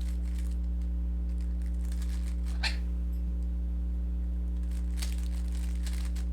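Rubik's cube being turned: faint plastic clicks and rattles of the layers, a little louder about two and a half seconds in and again near five seconds. A steady low hum runs underneath throughout.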